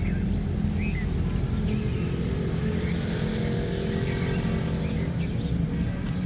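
A motor vehicle's engine running steadily, a low even drone.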